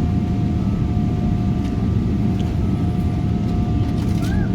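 Boeing 777 cabin noise on the ground: a steady low rumble with a thin, even whine on top, which the passenger puts down to the hydraulics working.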